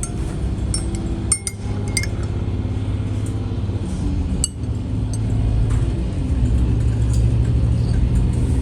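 Steady low rumble of a diesel railcar running along the line, heard from inside the car, with glassware and tableware clinking several times.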